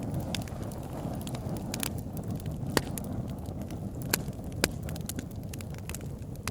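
Campfire burning, with irregular sharp crackles and pops of the wood over a steady low rumble; a few pops stand out louder, near three seconds in and again around four and a half seconds.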